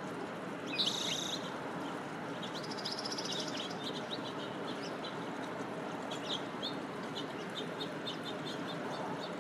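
Finches chirping and singing: a short buzzy call about a second in, a quick run of notes around three seconds, then a string of short high chips, over a steady low rushing background noise.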